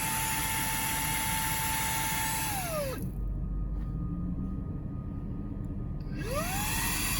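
Xiaomi Mi mini cordless vacuum cleaner's brushless motor running with a steady high whine. It is switched off about three seconds in and winds down, then is switched back on after a pause of about three seconds and spins up to speed again.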